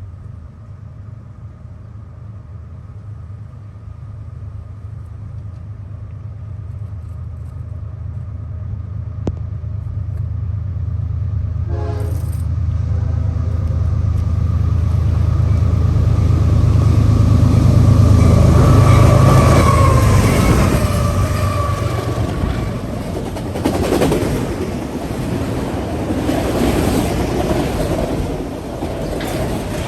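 Diesel-powered train approaching and passing: the locomotive's engine rumble builds steadily to its loudest about two-thirds of the way through. Then the cars roll by with a noisy rattling of wheels on rail.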